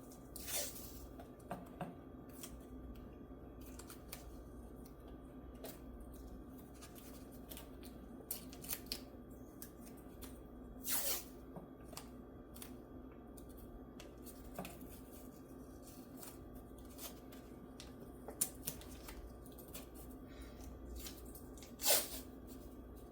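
Scattered small clicks and handling noises, with three short scraping sounds, from tools and parts being handled on a guitar repair bench, over a steady low hum.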